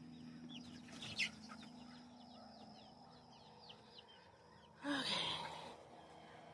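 Chickens making many faint, quick, high chirps, with a short louder burst of noise about five seconds in.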